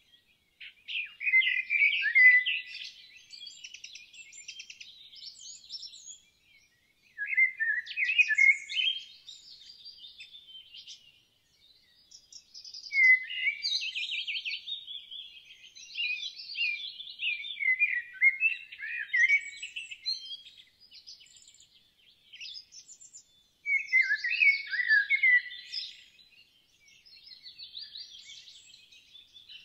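Songbird song: quick, warbling, chirping phrases that come in bursts every few seconds, with short pauses between them.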